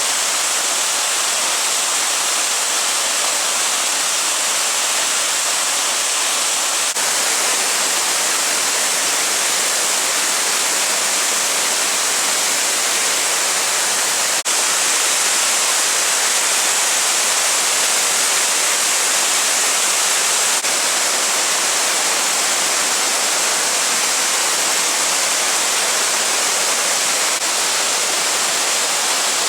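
Waterfall: a loud, steady rush of falling water, even and unbroken, with its hiss strongest in the high range.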